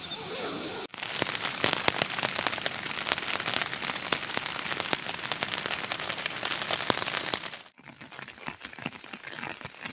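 Rain falling on a nylon dome tent, heard from inside the tent: a dense hiss full of sharp drop hits. It cuts off suddenly near the end, leaving a quieter rain hiss.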